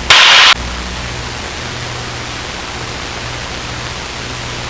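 Steady drone of a Luscombe's engine and propeller in cruise, heard as cockpit noise through the headset intercom, with a low hum under a wide hiss. A brief loud burst of hiss comes near the start.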